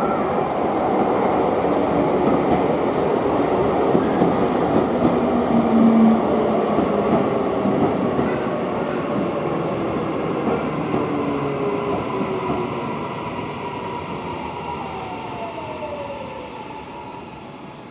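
Electric commuter train running at the platform, loud at first and then fading, with a motor whine that falls in pitch near the end as the train slows.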